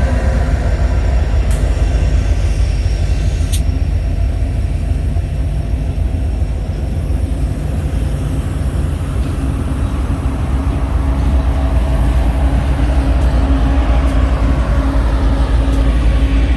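A train rolling past close by: a loud, steady low rumble of wheels on rail, with a few sharp clicks.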